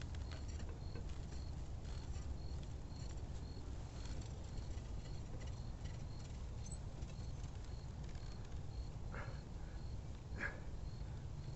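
Outdoor ambience: a steady low rumble, with a faint, regular high chirp repeating about three times a second and two short scratchy rasps near the end.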